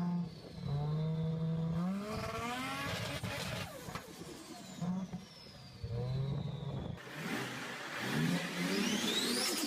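A Nissan Skyline GT-R R34 engine is revved twice from idle. Each time the pitch climbs for about a second, then drops back to a steady idle, with a high thin whistle falling away afterwards. About seven seconds in, the sound cuts to a different, busier stretch of engine running.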